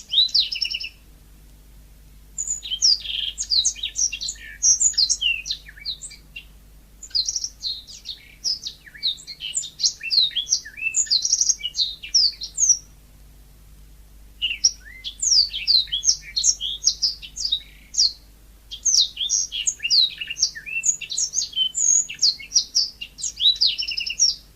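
Yellow-fronted canary (Mozambique canary) singing, with rapid, varied chirps and trills in about five bouts separated by pauses of a second or two.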